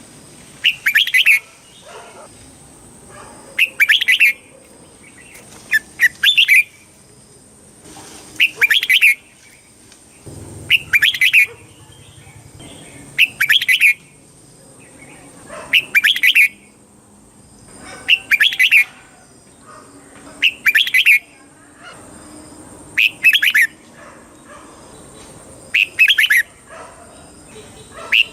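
Red-whiskered bulbul singing the same short phrase over and over, about one phrase every two and a half seconds, each phrase about a second long in two quick parts. A faint steady high-pitched whine runs beneath the song.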